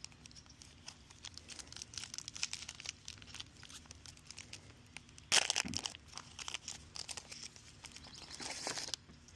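Trading card booster packs being torn open and their foil wrappers crinkled: a run of crackling, with a loud tear about five seconds in and more crinkling near the end.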